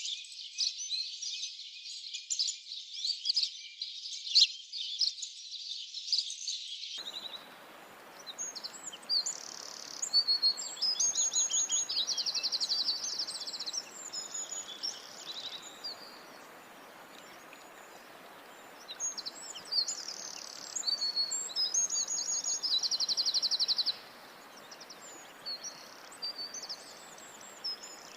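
Many small birds chirping densely together. About seven seconds in, the sound cuts to a few birds singing separate phrases with fast trills over a steady background hiss.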